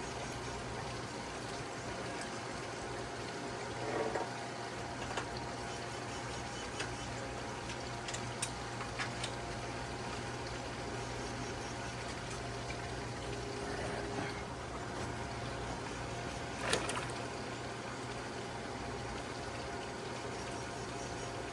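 Steady rushing water over a constant low motor hum, with a few scattered light clicks and knocks, the sharpest about three-quarters of the way in.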